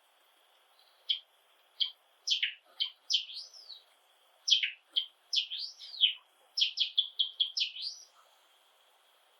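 Java sparrows chirping: a run of short, quick notes that sweep up and down in pitch, crowding closer together near the end, then stopping about a second before the end.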